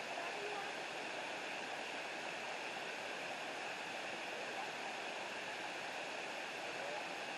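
Waterfall and creek rushing, a steady even wash of falling water.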